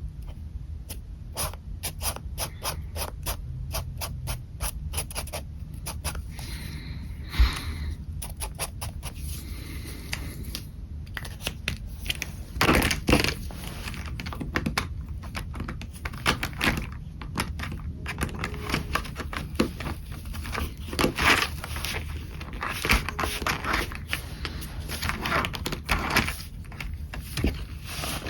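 Pen nib scratching on paper in short strokes: a quick run of rapid ticking strokes in the first few seconds, then longer scratchy strokes.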